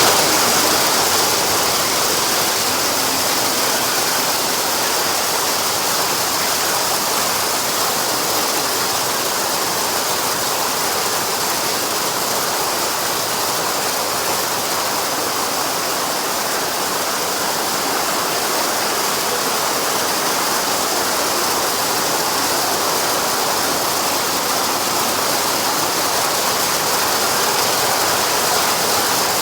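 Heavy rain and hail coming down steadily, a dense, even hiss that keeps up without a break.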